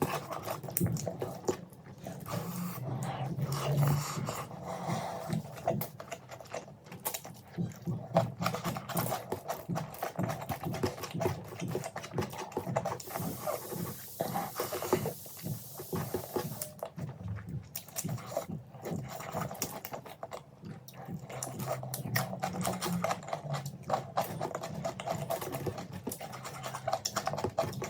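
Close-miked chewing and mouth sounds of someone eating, dense with small clicks throughout.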